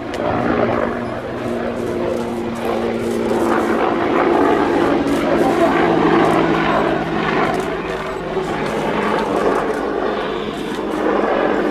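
Aircraft engines running loud and steady, a rushing noise over several low humming tones, swelling to a peak in the middle and easing slightly toward the end.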